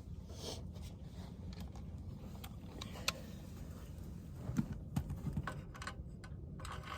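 Faint scattered clicks and light knocks of small metal parts and tools being handled, a few close together about five seconds in, over a low steady background rumble.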